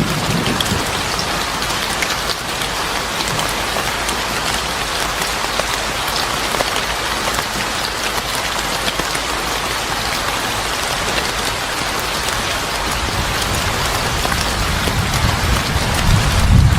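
Steady heavy rain falling on a surface, a dense even hiss with scattered drop ticks. A low rumble swells in under it near the end.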